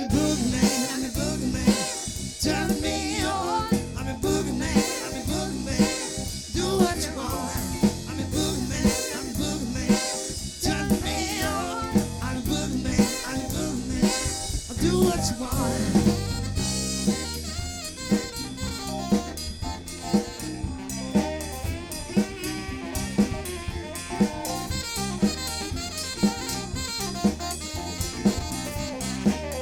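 Live band music with a steady drum-kit beat and horns, played without vocals.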